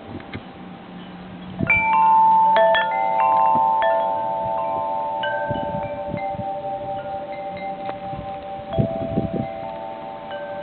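Metal wind chimes set ringing by gusts, several tones struck together about two seconds in and a few more just after, each ringing on and fading slowly. Wind gusts rumble on the microphone underneath.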